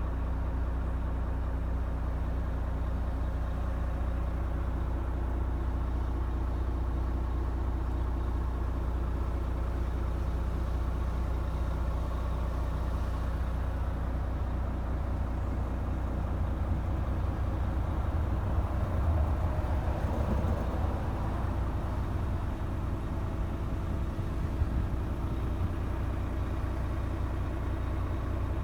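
Renault T460's six-cylinder diesel engine idling steadily, briefly a little louder about two-thirds of the way through.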